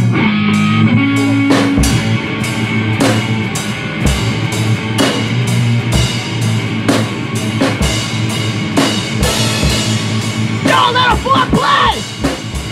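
Rock band playing the instrumental opening of a song: electric guitar chords over a drum kit keeping a steady beat with kick and snare hits.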